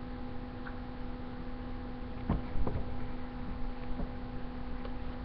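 Steady electrical hum, with a few faint clicks about two and a half seconds in.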